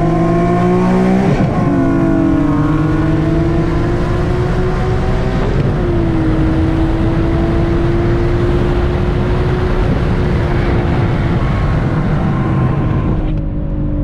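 Nissan VQ V6 sports car engine at full throttle, heard from inside the car during a race pull: it revs up through the gears, with upshifts about a second and a half in and again about six seconds in, then a long climb in the next gear before the driver lifts off near the end. The shifts are ones the driver calls bad shifting.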